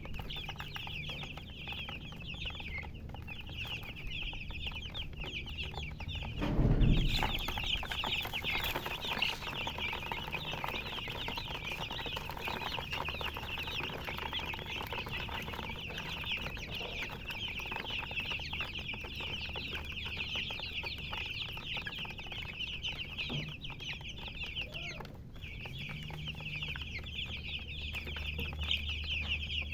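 A brood of baby chicks peeping constantly, many short high-pitched chirps overlapping in a dense chorus. About seven seconds in, a loud low bump is the loudest sound.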